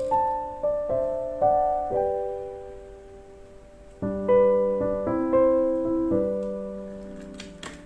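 Background piano music: a gentle melody of struck notes and chords, each note fading out before the next. A brief clicking sounds near the end.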